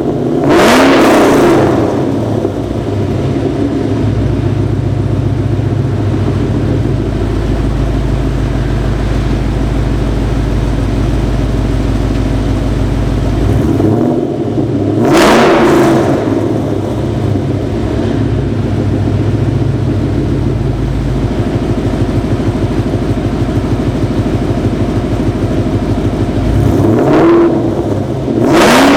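Ford Mustang GT V8 idling through BBK long-tube headers, an off-road X-pipe, mid-mounted Pypes M80 mufflers and MBRP muffler-delete tailpipes. It is blipped to a short, quick rev three times: near the start, halfway through and near the end.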